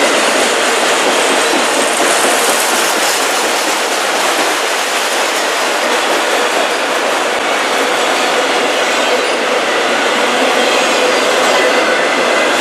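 Freight train of autorack cars passing close by: steady, loud noise of steel wheels running on the rails.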